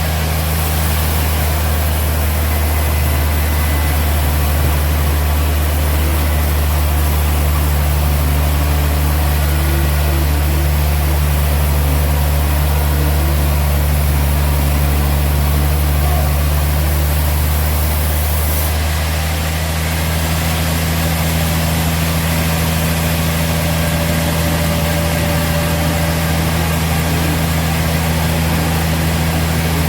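Sawmill machinery running with a steady low drone like an idling engine. The sound shifts slightly about two-thirds of the way through.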